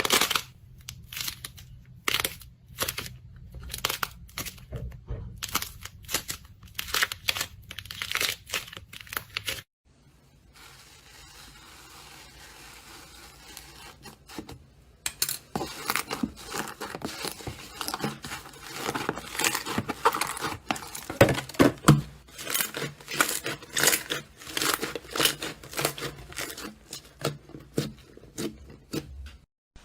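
Slime being squeezed and pressed by hand, giving dense runs of crackling pops and clicks. They break off briefly about ten seconds in, give way to a softer hiss for a few seconds, then return.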